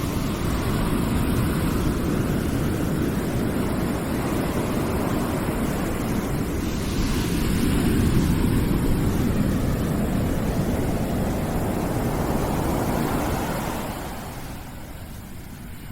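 Continuous low, rushing background noise played as white noise. It swells a little around the middle and falls away near the end.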